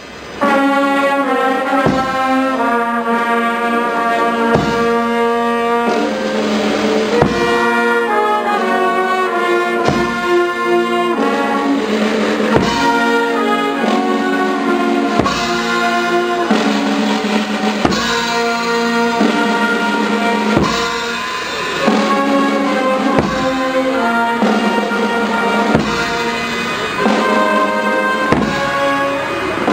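Brass band with drums playing a slow march: held brass chords over a drum stroke about every two and a half seconds.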